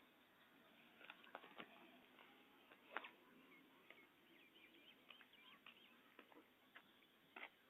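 Near silence: faint outdoor ambience with a few scattered light clicks and faint, short chirps like small birds.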